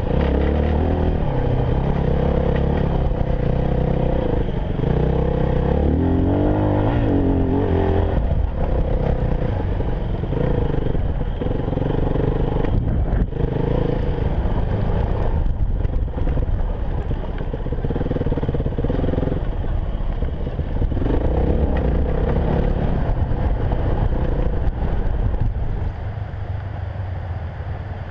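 Enduro motorcycle engine running while riding, its pitch rising and falling again and again as the throttle opens and closes. It gets quieter in the last couple of seconds.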